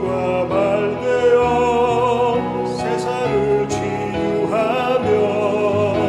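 Church choir singing a hymn anthem in long held notes with vibrato.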